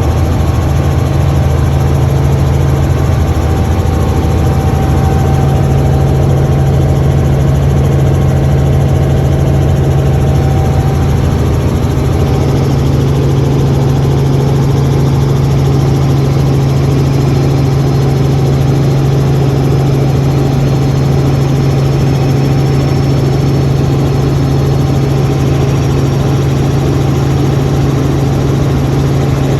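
Helicopter engine and rotors running steadily: a loud, even mechanical drone with a strong low hum.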